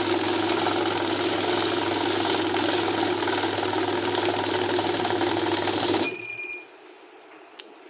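Banknote counting machine running steadily as it feeds notes through, stopping abruptly about six seconds in, followed by a short electronic beep as the count finishes.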